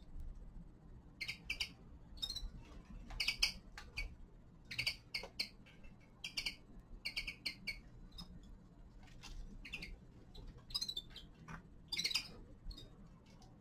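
Small finches giving short, repeated chirping calls, high-pitched and in quick pairs and triplets, with a few clicks between them.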